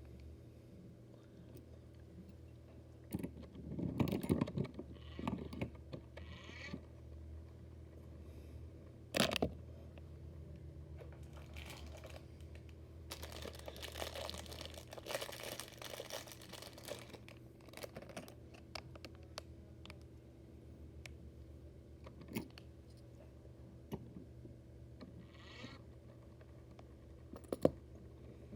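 Small hard objects being handled and set down: light clicks, taps and scraping, with a cluster of knocks about four seconds in, sharp clicks about nine seconds in and near the end, and a rustling stretch in the middle. A steady low hum runs underneath.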